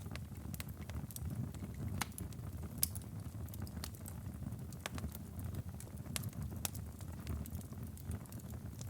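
Wood fire burning in a fireplace: a steady low rumble of the flames with irregular sharp crackles and pops of the burning logs, one louder pop about three seconds in.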